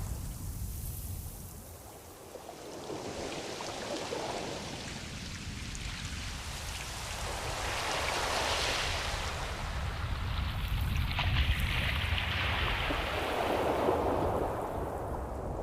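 Ocean surf: waves swelling and washing in, a noise that ebbs about two seconds in and builds into stronger surges through the second half.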